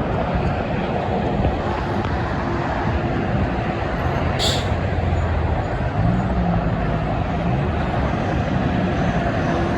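Road traffic with heavy trucks running past, a steady roar with an engine's pitch rising and falling about six seconds in. A short, sharp hiss sounds about four and a half seconds in.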